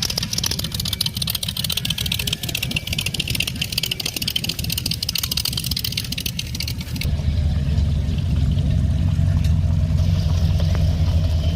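A car engine running steadily, with a hissing rush over it at first. About seven seconds in the sound changes abruptly: the hiss drops away and the engine's low drone becomes louder and steadier.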